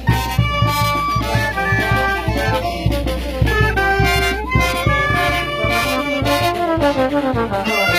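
Brass band music with a steady beat, horns playing a lively melody.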